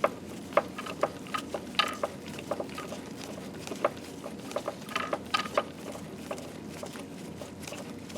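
Scattered light clicks and metallic clinks of hand tools and bolts being handled, a few ringing briefly, over a steady low hum.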